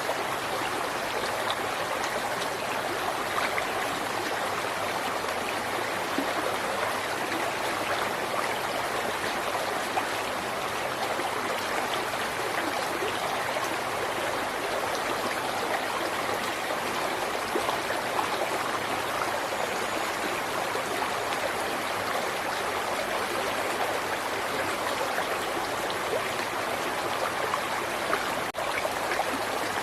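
A river flowing steadily, its water rushing and splashing without a break.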